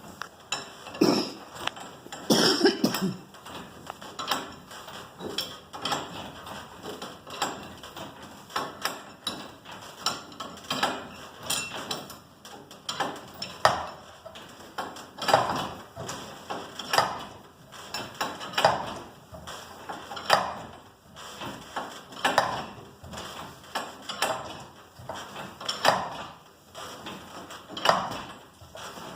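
Steel winding bars clinking against the winding cone of a garage door torsion spring as it is wound by hand, a metallic clink about every one and a half to two seconds.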